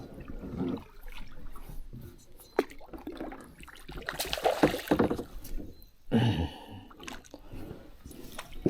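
Water splashing and sloshing in irregular surges as a hooked Murray cod thrashes near the surface, with the two strongest splashes about four and six seconds in.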